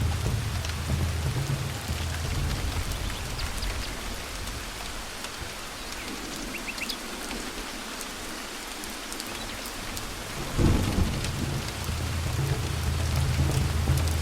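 Thunderstorm: steady rain hissing throughout, with low rolling thunder that dies away toward the middle. A sudden clap of thunder comes about two-thirds of the way through, and the rumbling builds again after it.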